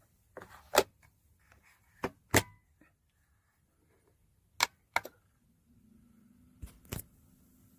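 A series of about seven sharp clicks and knocks at irregular intervals, like small objects being handled or set down. A faint steady hum starts near the end.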